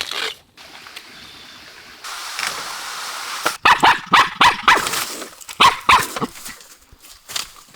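A dog barking and yipping in a quick run of short barks, most of them packed into the middle few seconds.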